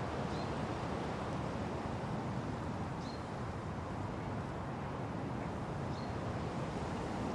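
Steady wind rushing through forest trees, with a bird giving a short, high chirp three times, about three seconds apart.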